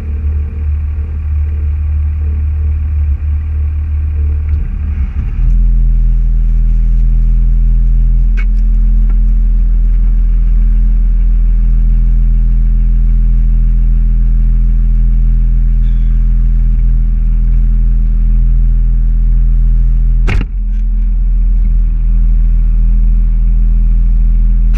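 Car running with a low rumble that changes about five seconds in to a steady low drone. Two brief clicks come, one about eight seconds in and one near the end.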